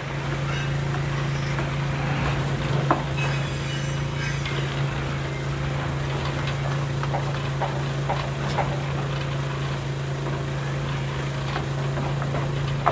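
Small electric motor of a homemade toy tractor running steadily with a constant hum, over a crackling haze with scattered clicks.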